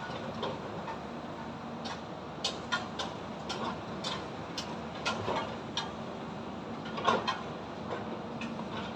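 High-rise construction site: irregular metallic clanks and knocks, the loudest about seven seconds in, over a steady low hum and background rumble.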